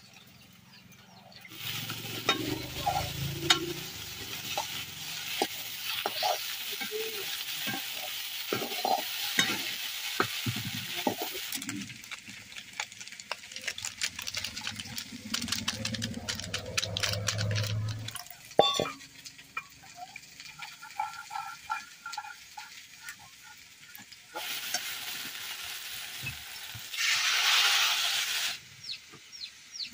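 Sliced okra frying in oil in a metal kadai over a wood fire, sizzling, with a spatula scraping and clicking against the pan as it is stirred. The sizzle comes and goes, with a stretch of quick stirring clicks in the middle.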